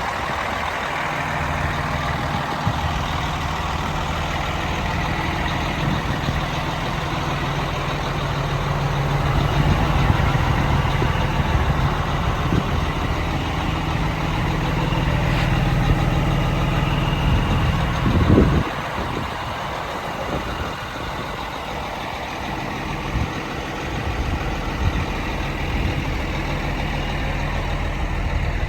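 Cummins diesel engine of a 1995 White/GMC truck running steadily at idle. Its note changes about two-thirds of the way through.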